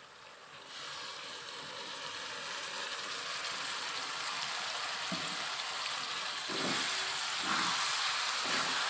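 Oil sizzling in a metal kadai as coriander-leaf paste is added to browned fried onions. The hiss starts under a second in and grows steadily louder, and from about five seconds in a wooden spatula knocks and scrapes in the pan as the paste is stirred in.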